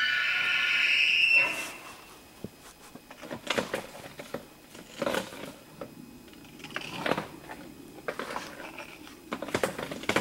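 Bull elk bugling: a high, whistling call that rises and is held, then breaks off about a second and a half in. Several short, coarse grunts follow over the next few seconds.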